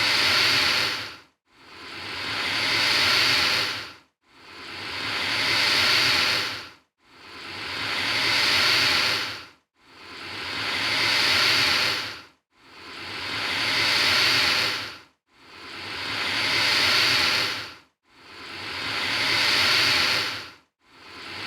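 Alligator hissing: a long hiss that swells and then cuts off sharply, repeated evenly about every three seconds, eight times over.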